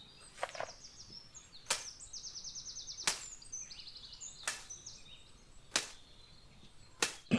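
Small birds giving rapid, high-pitched trills over outdoor ambience, with six sharp clicks at an even pace, a little over a second apart.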